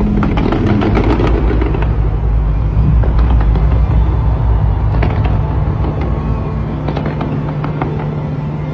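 Fireworks going off in quick succession: many sharp cracks and bangs over a continuous low rumble, thickest about a second in and again in the second half.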